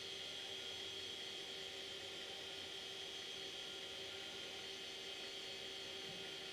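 Acer Acros 486 desktop computer running just after power-on: a steady whir from its cooling fan and spinning hard drive, with a constant high whine.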